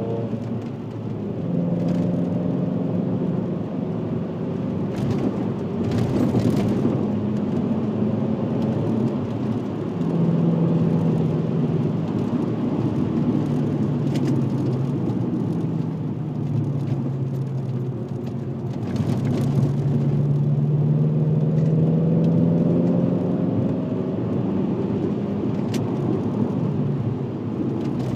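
VW Passat W8's 4.0-litre W8 engine through a custom stainless exhaust with twin rear mufflers, on the move. The engine note drops in a few steps and then climbs slowly as the car pulls, over steady tyre and road noise.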